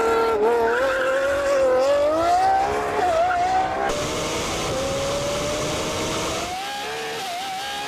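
Lamborghini supercar engines accelerating hard from a launch, the revs climbing steadily and dipping briefly at each upshift.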